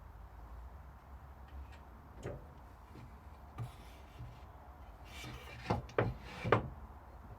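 Wood being handled and adjusted on a workbench: a few light knocks, then a short scraping rub and three sharper knocks close together near the end, as the wooden neck blank is fitted under a drill-press thicknessing jig.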